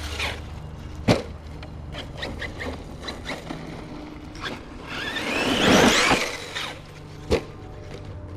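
Team Corally Kagama 6S RC car driving, with a burst of motor and drivetrain whine that rises and falls about five to six and a half seconds in, and two sharp knocks, one about a second in and one near the end. It carries a drivetrain noise that the owner suspects comes from a diff cup.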